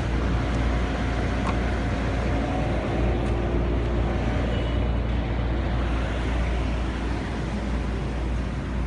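Bentley 6.0-litre twin-turbo W12 engine running steadily, a constant low rumble without revving.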